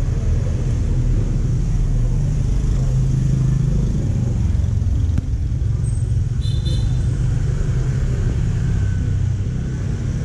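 Busy street traffic dominated by motorbike engines, a steady dense rumble. A short high-pitched beep sounds about six and a half seconds in.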